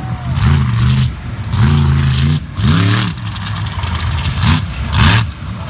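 Walking Tall monster truck's engine being revved hard in a series of throttle bursts during a freestyle run, its pitch climbing and dropping again about five times.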